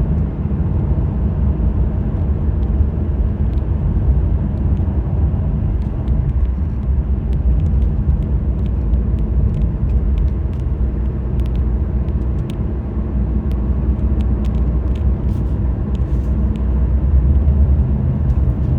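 Car driving, heard from inside the cabin: a steady low rumble of engine and road noise, with a scatter of faint light clicks.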